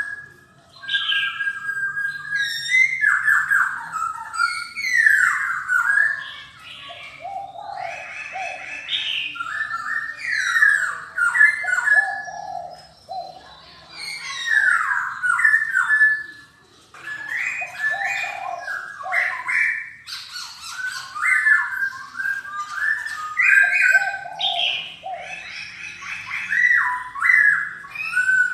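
Black-throated laughingthrush singing loudly: a long run of varied whistled phrases, some low and some high, repeated with short pauses between them.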